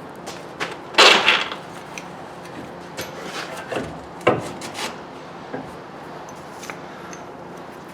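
Workshop handling sounds of parts and tools: a loud scrape about a second in, then a few shorter scrapes and sharp knocks.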